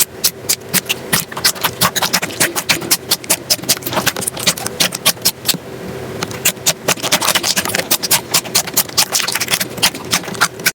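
Slime being squeezed and pressed by hand, giving a quick run of sharp wet clicks and pops, several a second, that goes on throughout.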